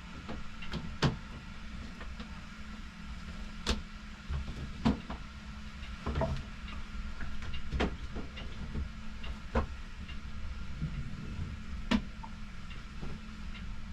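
Scattered sharp knocks and clatters, about ten at uneven intervals, of objects being handled and set down, over a steady low hum.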